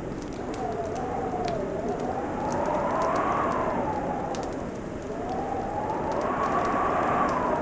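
Wood fire crackling with scattered sharp pops, over a winter wind howling whose pitch rises and falls in slow swells.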